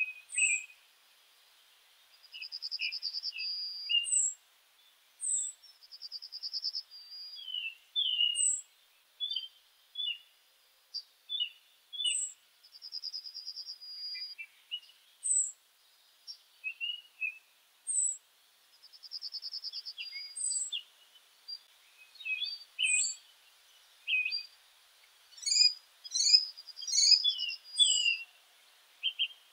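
Songbirds chirping and singing, with many short high chirps and a buzzy trill about a second long repeated several times. The calls come thicker near the end.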